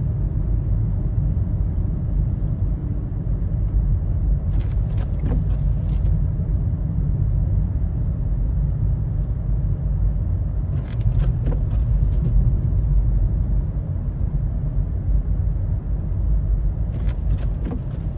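Car driving on a snowy road: a steady low rumble of road and engine noise. Short higher-pitched sounds come three times, about six seconds apart.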